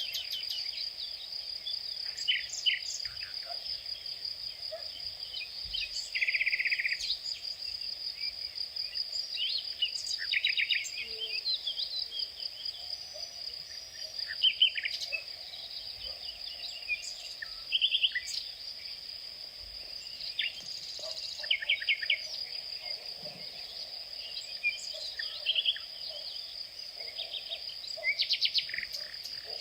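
Insects trilling steadily at a high pitch, with birds chirping and calling on and off over it.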